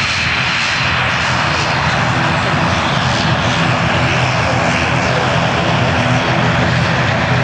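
Jet airliner engines running loud and steady.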